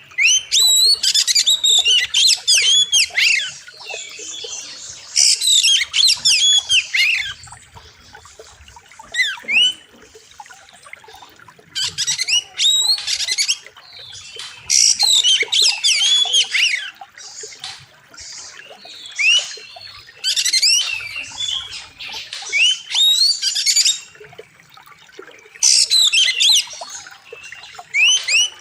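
Oriental magpie-robin (kacer) singing loud, sharp whistled phrases with fast up-and-down glides. The song comes in bursts of a second to three seconds, about seven times, with short pauses between.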